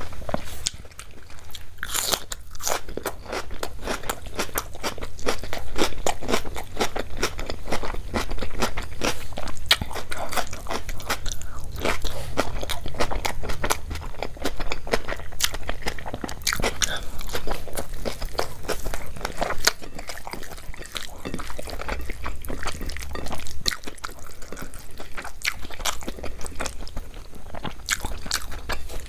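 A person chewing and biting food close to the microphone: a dense, continuous run of crunches and mouth clicks.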